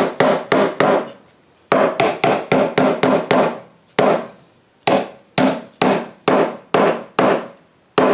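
Hammer driving a nail into a cedar fence picket: runs of sharp, ringing strikes, about three a second, broken by short pauses.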